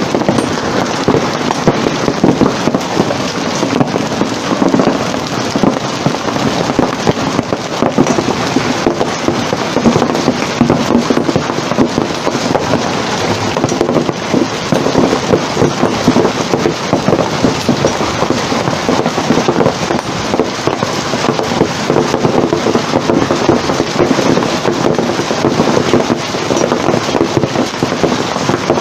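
Hailstones pelting down in a heavy hailstorm: a loud, unbroken clatter of countless hard impacts over the hiss of falling ice and rain.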